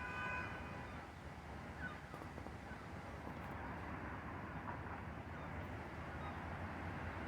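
A few bird calls over a steady low rumble: one short, harsh call at the start and a couple of faint chirps later.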